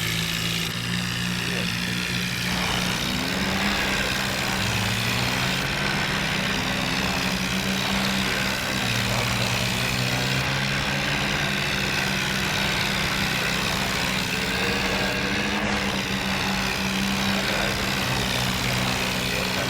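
Farmtrac 60 tractor's diesel engine running steadily under load, its pitch shifting up and down a little.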